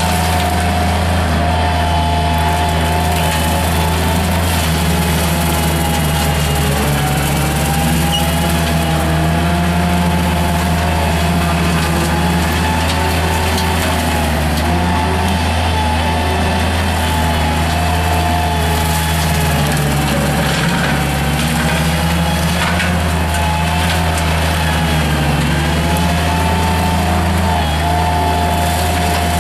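Mini skid steer loader's engine running steadily under load while driving a CID Xtreme 42-inch hydraulic brush cutter, a whining tone drifting slightly up and down in pitch over the steady drone.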